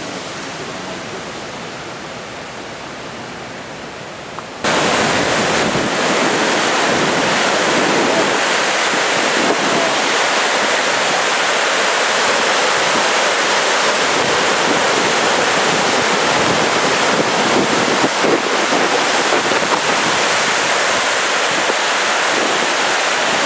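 Steady rush of a flooded, fast-running river, with wind on the microphone. About four and a half seconds in it jumps suddenly louder and stays so.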